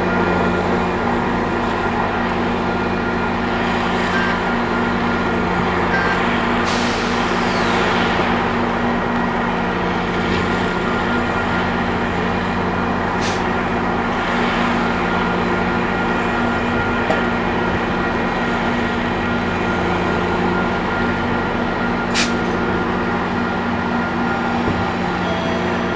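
Diesel-powered GO Transit commuter train standing at the platform, its engine running with a steady hum. A loud hiss of air comes about seven seconds in, falling in pitch, and two short sharp hisses follow, one around the middle and one near the end.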